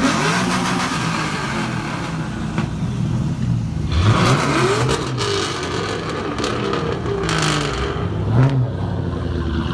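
Subaru STI's turbocharged flat-four revved through an aftermarket exhaust. It blips up sharply three times, at the start, about four seconds in and near the end, and runs loudly in between.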